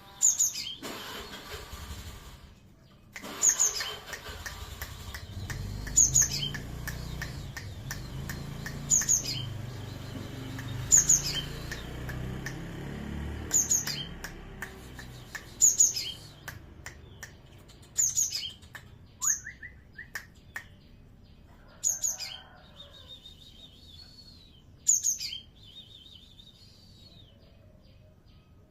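Cinereous tit (gelatik batu) giving short, sharp, high chirps, one every two to three seconds, with a few buzzy calls a little past the middle. A low rumble runs underneath during the first half.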